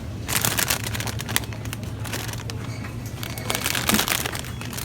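Plastic packaging crinkling as it is handled, in several short rustling bursts.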